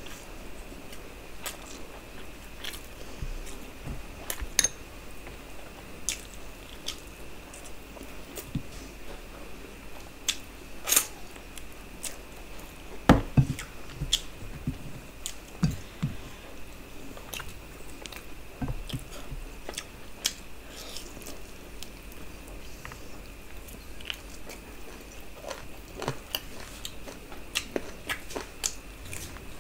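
Close-miked eating by hand: chewing and wet mouth smacks over chicken biryani and mutton, with scattered small clicks and a few louder knocks about halfway through. A faint steady high whine runs underneath.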